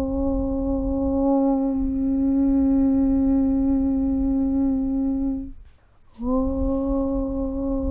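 A voice chanting a long, steady 'Aum' on one held note, which fades out about five and a half seconds in; after a brief pause for breath the next 'Aum' begins with a slight rise into the same pitch.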